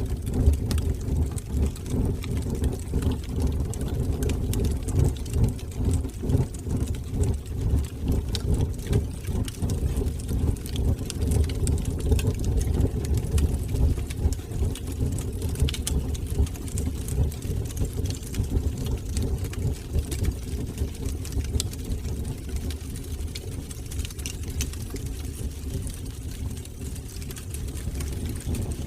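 Fire burning in a fireplace: a steady low roar of flames with scattered small crackles and pops.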